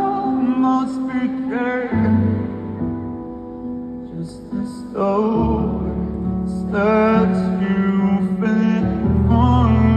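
Live rock band performance of a slow song: a male lead vocal singing over sustained keyboard chords and bass, the accompaniment thinning out a couple of seconds in, with the singing and a fuller band coming back in about halfway through.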